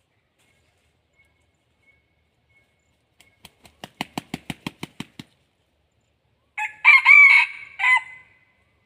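Red junglefowl rooster beating its wings, about a dozen quick claps, then crowing once about a second and a half later, a short crow that breaks off near the end.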